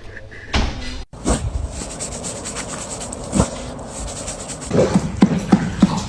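A horse making a run of short, evenly spaced sounds, about three a second, starting near the end; before that, a few knocks and one brief louder sound.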